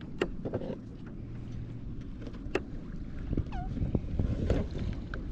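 Wind buffeting the microphone and water slapping against a kayak hull, with scattered small clicks and knocks and one short falling squeak about three and a half seconds in.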